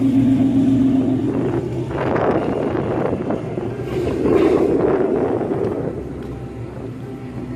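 Car engine running, with two swells in loudness, about two seconds in and again about four and a half seconds in, before it eases off.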